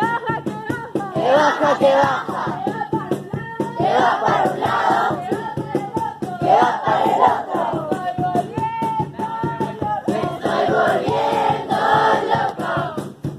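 A group of voices singing a song together, with music.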